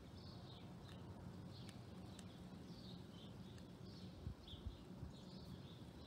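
Small birds chirping faintly: a string of short, high chirps, about one or two a second, over a low steady hum.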